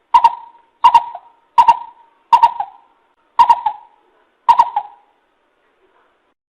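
A coucal (bìm bịp) calling: a series of six hooting notes about 0.7 s apart, which stops about five seconds in.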